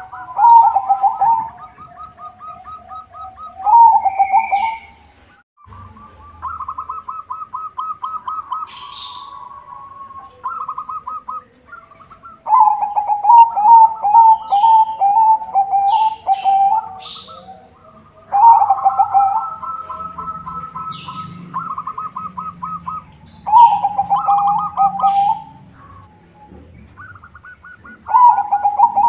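Zebra dove (perkutut), a white-plumaged bird, cooing: repeated phrases of rapid staccato notes, each lasting a few seconds, with short pauses between them. Faint high chirps sound over the cooing.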